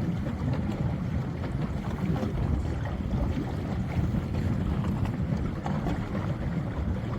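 Low, steady rumble of a boat under way, with wind buffeting the microphone.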